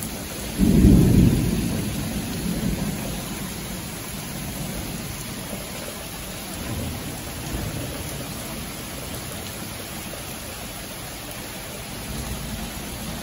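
Thunder in a rain storm: a loud low rumble breaks out about half a second in and rolls away over several seconds, over the steady hiss of rain.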